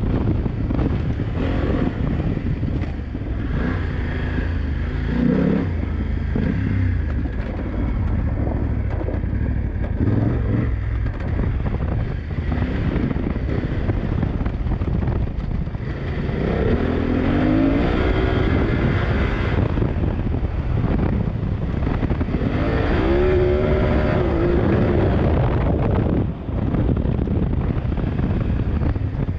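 BMW F900GS parallel-twin engine being ridden hard off-road, its pitch climbing and dropping as the rider works the throttle, with two clear rises in revs past the halfway mark. Wind buffets the onboard microphone.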